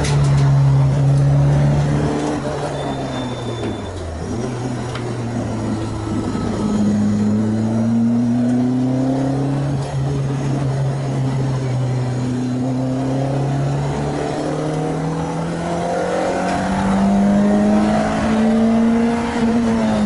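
Renault Clio 2 RS MiniCup's 2.0-litre four-cylinder engine pulling hard on track, freshly rebuilt and on its first test. The revs fall about four seconds in, then climb steadily, with a brief drop about ten seconds in and another right at the end.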